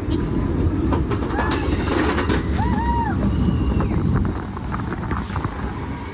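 Roller coaster train rumbling and clattering along its track, with a short high cry about two and a half seconds in.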